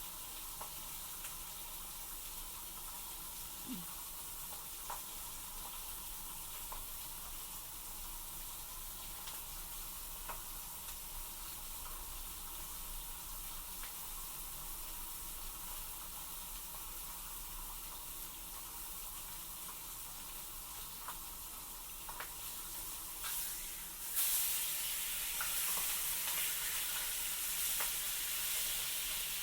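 Food frying in a pan: a steady sizzle with scattered light clicks and taps, which swells louder about 24 seconds in.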